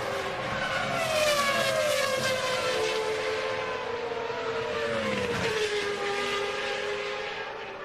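Formula One car engines running at high revs, several at once, their pitch gliding down as cars pass.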